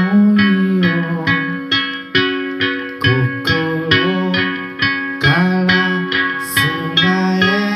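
Live instrumental music: a guitar picking a steady run of notes, with a low melody whose notes slide in pitch over held higher tones.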